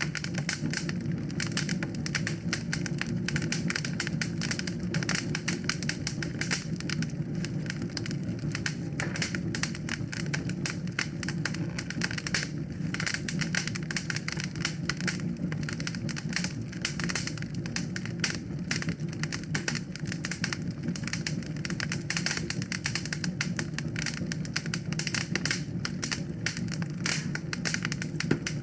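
Wood fire in a fireplace crackling, thick with small irregular pops and snaps over a steady low rumble of the flames.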